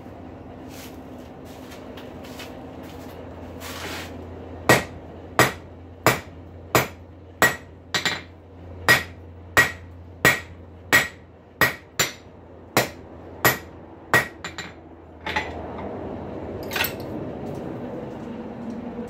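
Hand hammer striking a hot rail spike on an anvil: about fifteen evenly spaced blows, roughly one and a half a second, each with a short metallic ring, then a few light taps. The smith is flattening the spike head to fit box-jaw tongs. A steady hum runs underneath.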